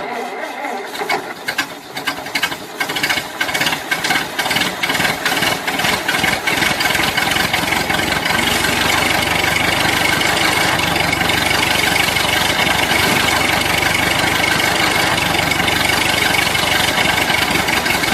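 A small motor starting up: separate ticks come faster and faster and, after several seconds, merge into a steady running whir.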